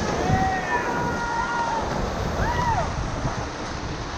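Rushing whitewater around a raft, a steady dense roar. A few short high-pitched cries or whoops rise over it, one swooping up and down about two and a half seconds in.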